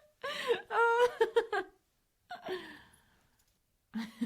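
A woman laughing: a burst of pitched laughs, then a breathy gasp, a short pause, and the laughter starting again near the end.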